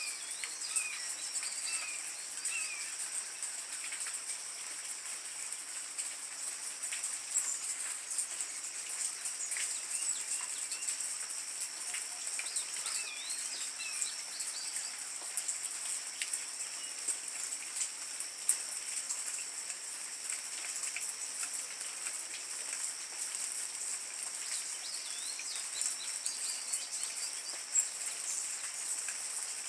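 Hummingbirds chirping in short, high, squeaky notes, scattered in small clusters, over a steady high-pitched drone and faint crackling.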